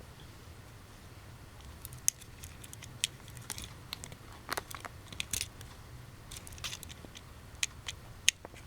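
Small plastic items being handled, with scattered sharp clicks and light rustling over a faint steady low hum.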